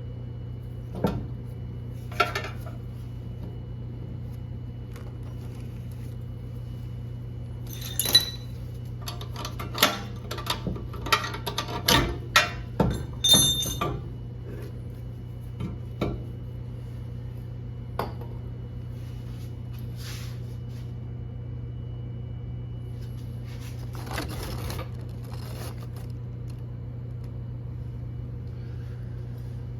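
Metal hand tools and parts clinking and knocking in scattered bursts, busiest from about eight to fourteen seconds in and again briefly near twenty-four seconds, over a steady low hum.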